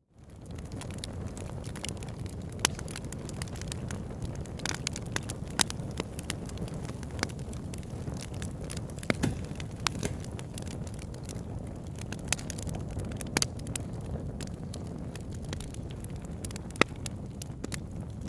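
Wood fire burning: sharp crackles and pops at irregular moments over a steady low rumble of the flames, with a handful of louder pops standing out. The sound fades in from silence at the very start.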